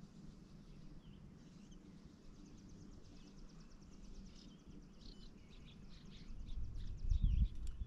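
Faint songbird chirps and a fast trill in the background, with a low rumble near the end.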